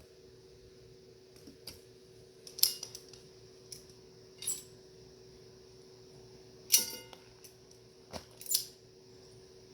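Light clicks and knocks of small metal pieces being handled and set down, about eight at irregular intervals, the loudest a sharp metallic clink near the middle that rings briefly. A steady low hum runs underneath.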